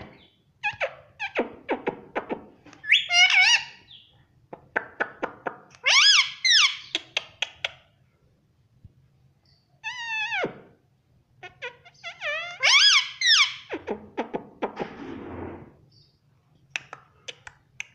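Ringneck parrot vocalizing in short, squawky calls that bend in pitch, four bursts a few seconds apart, with runs of quick clicks between them.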